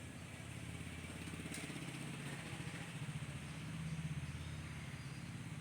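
A small engine running steadily with a fast, even pulse, a little louder about four seconds in.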